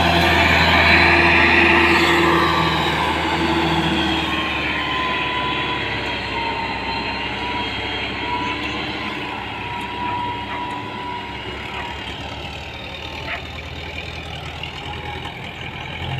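Tractor diesel engine running steadily, its sound slowly getting quieter.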